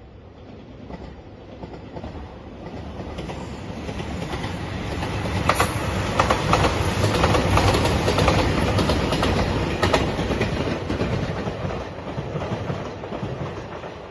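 Diesel limited-express train passing: its running noise builds as it approaches and is loudest in the middle, with a quick clatter of wheels over rail joints, then it fades as it draws away.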